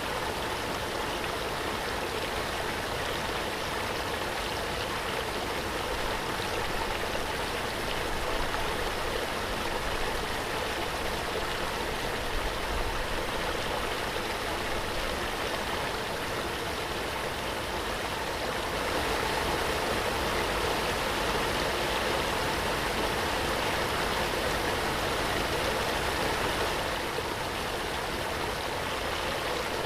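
A waterfall's steady rushing, a dense even wash of falling water.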